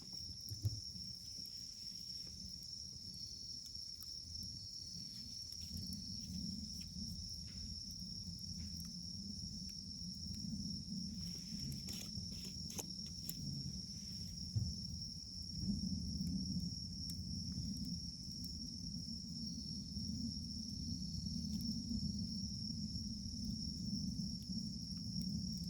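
Wood fire burning with a low rumble and a few sharp crackling pops, one about a second in and a cluster near the middle. A steady high-pitched insect trill runs behind it.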